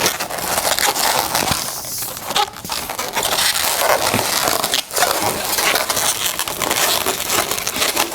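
Latex balloons being handled and twisted: a continuous scratchy rubbing and crackling of balloon skin against balloon skin, with a few sharper clicks.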